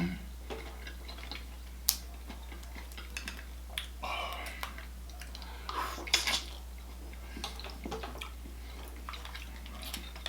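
Close-up eating sounds from a seafood boil: mussel shells clicking and wet, saucy squelches as mussels are pulled from their shells in garlic butter sauce, with a few sharp clicks.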